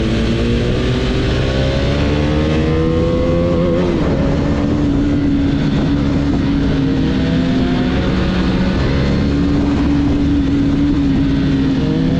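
Husqvarna Vitpilen's single-cylinder engine and exhaust running under way, its pitch climbing as the bike accelerates for the first few seconds, dipping briefly about four seconds in, then holding fairly steady with smaller rises.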